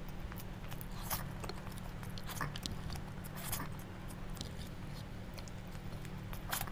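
Close-miked wet chewing and mouth smacks of a person eating curry-soaked rice by hand, with scattered soft clicks and a sharper smack near the end. A steady low hum runs underneath.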